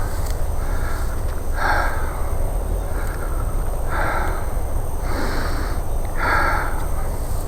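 A man's heavy, winded breathing, one loud breath about every two seconds, over a steady low rumble of wind or mic handling.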